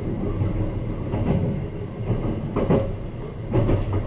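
Sunrise Izumo sleeper train (285 series electric multiple unit) running, heard from inside the car: a steady low rumble with a couple of heavier thumps.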